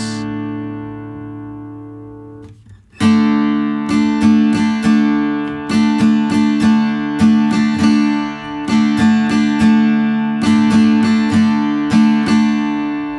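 Taylor Builder's Edition 324ce acoustic guitar strummed in a two-bar strumming pattern on a D chord, with the high E string left out. A ringing chord fades away over the first two and a half seconds, then the pattern starts about three seconds in with a steady run of down and up strokes.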